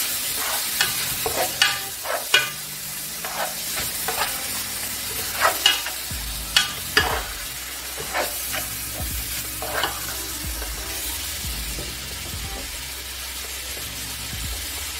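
Minced meat and chopped onions frying in hot oil in a metal pot, sizzling steadily, while a spoon stirs and scrapes against the pot in irregular strokes that thin out after about ten seconds.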